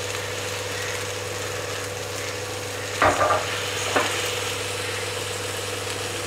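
Chilli chicken cooking in a steel pot on the stove, a faint sizzle over a steady hum, with two short knocks about three and four seconds in.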